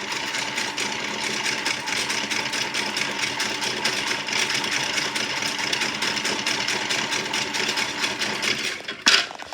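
Toy washing machine's small electric motor running steadily with a fast, even rattle, then stopping abruptly about nine seconds in with a sharp click.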